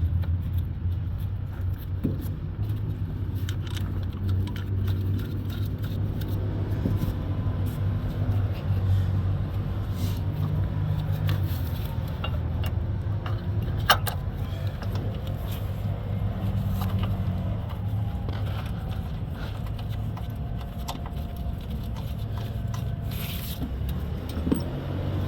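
A steady low mechanical hum with scattered light metallic ticks and clinks of tools at work on the car's engine mount, and two sharp clicks, about halfway through and near the end.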